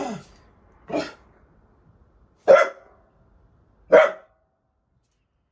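Dog barking at a fly: four short single barks about a second apart, the last two loudest.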